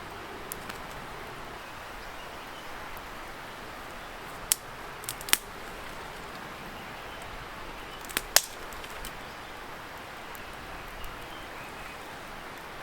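Wood campfire crackling, with a few sharp pops in two clusters around the middle, over a steady noise-like hiss of a distant river.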